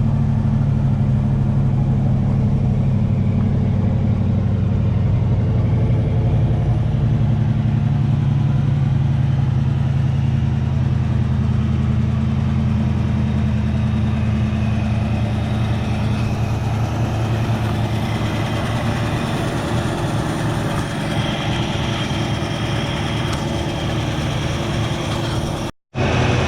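1966 Ford Mustang's engine running steadily at idle on a newly replaced fuel pump, back running after years of sitting, with the choke in question. Near the end the sound cuts out for a moment.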